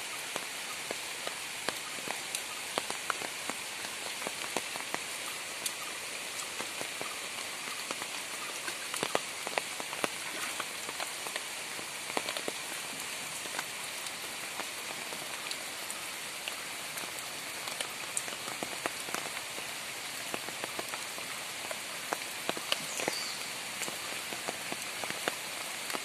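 Steady rain falling on floodwater and leaves, a dense hiss of many small drop ticks.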